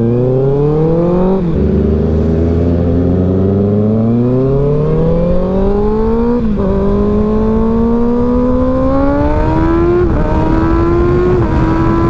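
Motorcycle engine accelerating through the gears: the revs climb steadily and drop sharply at each upshift, about a second and a half in, around six and a half seconds, and about ten seconds in, with a smaller step near the end.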